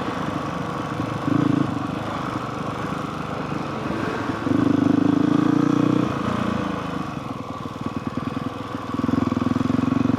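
Honda CRF450R's single-cylinder four-stroke engine running while being ridden, its note rising and holding louder three times as the throttle is opened: briefly about a second and a half in, for about a second and a half midway, and again near the end.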